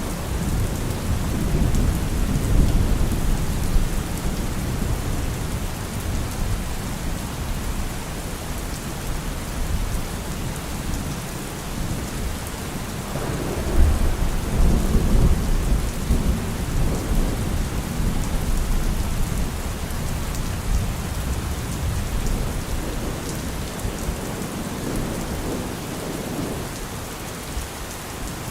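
Heavy rain falling on a car roof, with low thunder rumbling underneath; the strongest rumble swells about halfway through.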